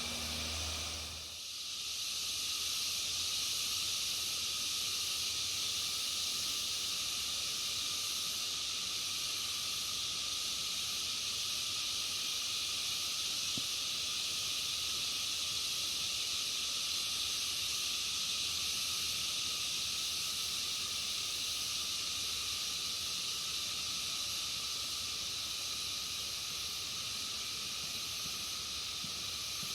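Steady, high-pitched chorus of insects droning without a break, with a couple of fainter lower tones held underneath.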